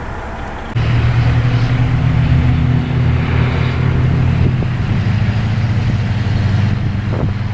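A motor vehicle's engine running close by: a steady low drone that comes in abruptly about a second in and holds, with a noisy haze of wind or road noise over it.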